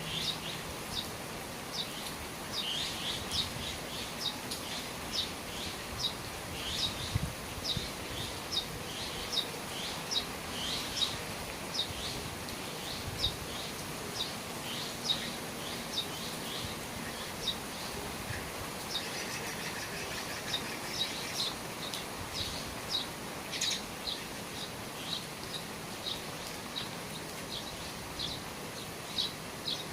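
A small bird chirping over and over, short high chirps about once or twice a second, over a steady hiss of falling rain. A second bird call joins briefly about two-thirds of the way through.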